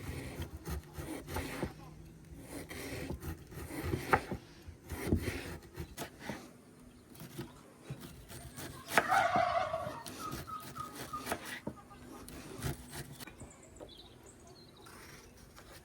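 A domestic fowl, most likely a turkey, calls once about nine seconds in, a loud call of about a second. Scattered clicks and knocks from kitchen work run through the rest.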